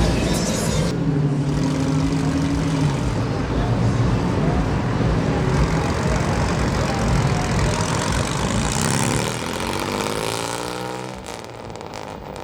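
Car engines running as vehicles cruise past, with faint voices. About three-quarters of the way in, one passing car's engine note sweeps in pitch, then the sound fades.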